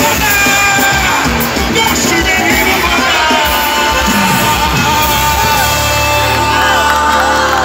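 Live worship band music with a held, wavering sung melody, over a crowd of voices calling out.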